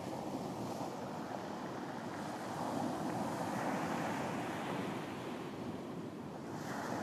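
Ocean waves breaking and washing on a beach, a steady surf noise with a wave surging up about halfway through and another breaking near the end.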